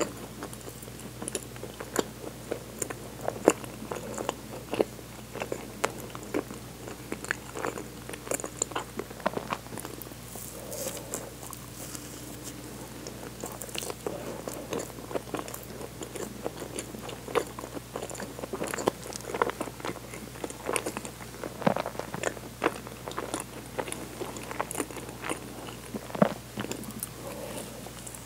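Close-miked chewing of soft sweet bread: irregular wet mouth clicks and smacks with the odd soft bite, picked up by a clip-on microphone at the collar.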